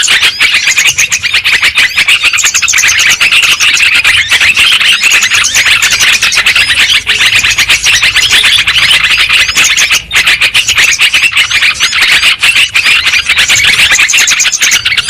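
Recorded yellow-vented bulbul (trucukan) calls used as a bird lure: loud, dense chattering made of many overlapping quick chirps, running without a break.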